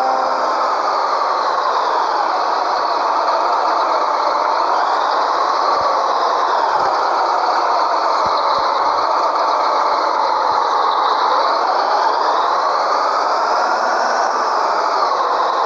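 Scania 113H truck's six-cylinder diesel engine running under way, its note rising and falling slowly a few times as the revs change.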